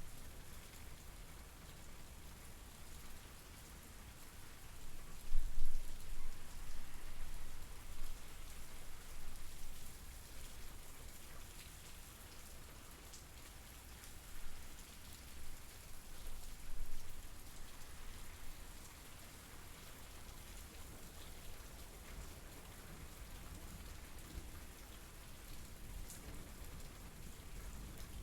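Steady rain falling, an even hiss with scattered drop patter. Low rumbles swell up about five seconds in and again around fifteen seconds.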